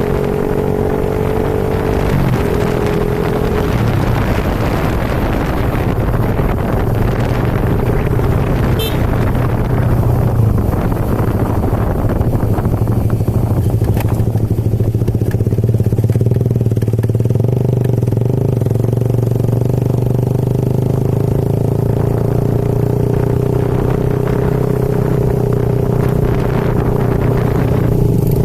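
Motorcycle engine running at a steady speed while riding, with a rushing noise over it that eases about halfway through.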